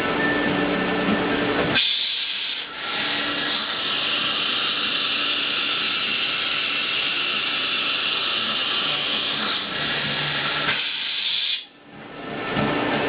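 Power tool or machine tool running in a machine shop. About two seconds in, a steady high-pitched rasping noise takes over from the lower machine hum and lasts about ten seconds. It then stops and the hum returns.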